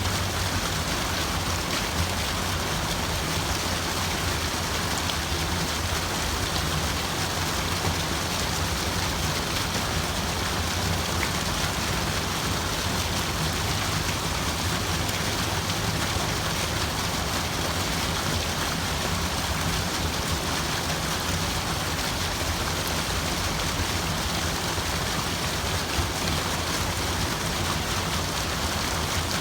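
Steady rushing water, an even, unchanging wash of noise without separate drops or splashes.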